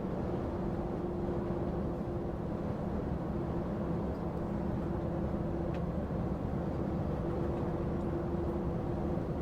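Heavy goods lorry driving at a steady cruise, heard inside the cab: an even drone of engine and road noise with a steady low hum.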